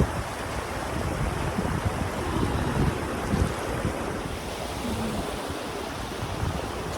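Steady rush of flowing creek water, with wind buffeting the microphone.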